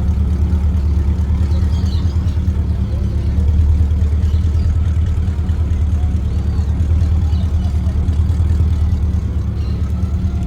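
A car engine running at idle: a steady low rumble of rapid, even firing pulses, swelling slightly about four seconds in.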